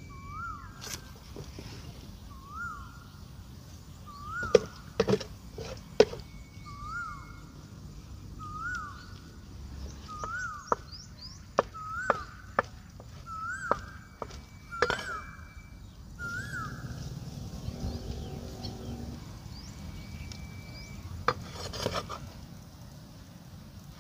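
A bird repeating a short rising-and-falling whistled note about once a second, stopping about two-thirds of the way through, with a few sharp knocks, the loudest about five seconds in. A low hum comes in for a few seconds later on.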